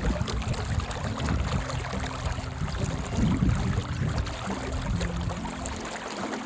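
Wind buffeting the microphone over running river water, a dense low rumble that swells briefly about three seconds in.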